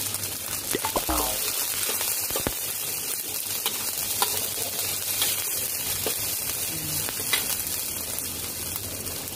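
A curry base of onion, garlic, ginger, chili and tomato with freshly added ground spices sizzles steadily as it fries in a pan. It is being stirred, with a few scattered clicks.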